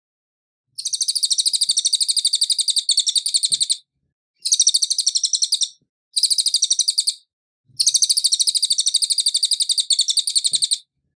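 Cililin songbird singing a fast, high, clear trill of rapid chattering notes in four bursts. The longest burst opens the song and another closes it, with two shorter ones in between.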